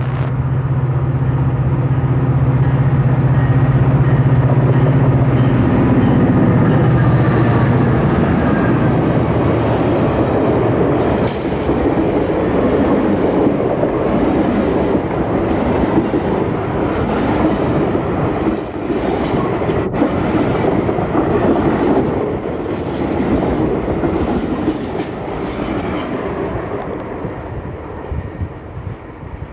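Amtrak passenger train passing close by. Its two EMD F40PH diesel locomotives run with a steady low engine drone that drops slightly in pitch about seven seconds in as they go by. The passenger cars follow with rolling wheel rumble and clickety-clack on the rails, fading away near the end.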